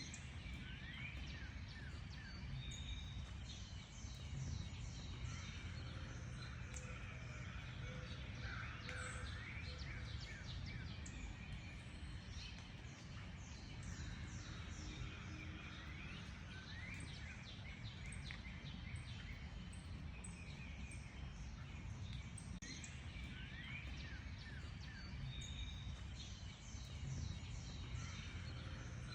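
Several songbirds chirping and calling at once, a dense run of quick high notes with repeated short upward-sweeping whistles, over a steady low background rumble.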